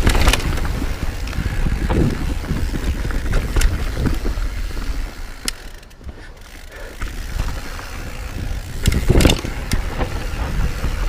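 Mountain bike riding down a dirt trail: wind rumbling on the microphone and tyres rolling, with sharp knocks and rattles as the bike hits bumps. It quietens for a moment about halfway through.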